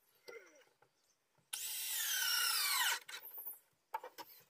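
Power drill driving a screw into deck wood for about a second and a half, its whine falling in pitch before it stops.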